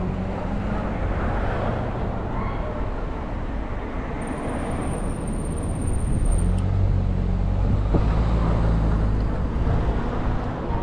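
City bus running, heard from inside, with a low drone that grows louder about six seconds in. A thin, high, steady whine sounds for about two seconds mid-way, and there is a single click near the end.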